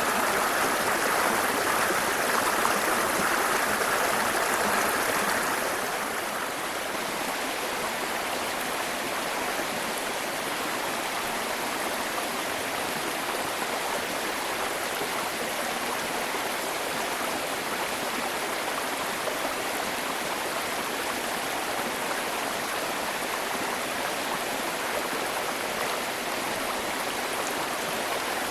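Waterfall: water rushing steadily, a little louder for the first six seconds, then slightly quieter.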